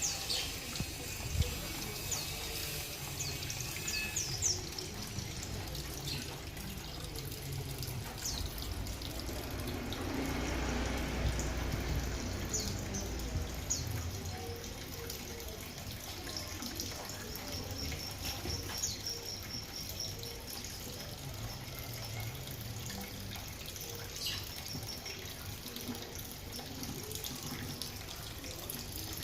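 Small parrots (lovebirds and parakeets) giving short, high chirps, with a quick run of repeated chirps about two-thirds of the way in, over a steady sound of running water.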